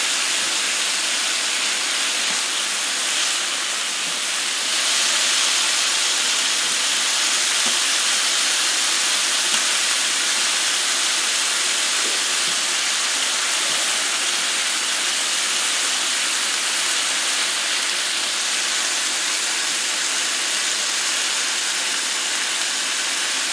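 Strips of thin-sliced beef and sliced onions sizzling steadily on a hot griddle.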